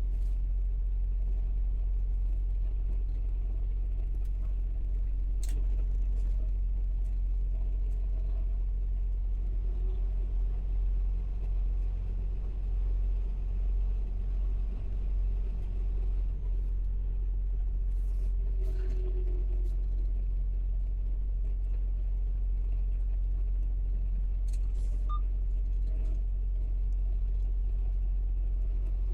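Steady low rumble of a semi truck's diesel engine running, with a few faint clicks.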